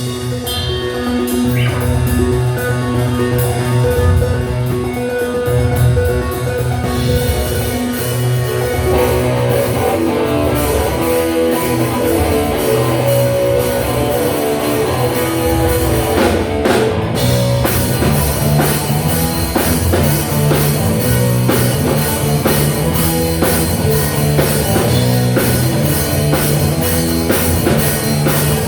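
Rock band playing live: electric guitar, bass and drum kit in an instrumental passage, building fuller about a third of the way in and again past the middle.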